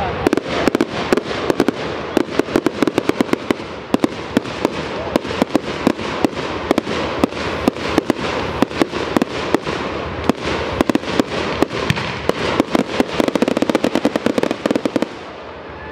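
Fireworks display: a rapid, continuous barrage of bangs and crackling reports, many per second, thickest near the end and then stopping abruptly.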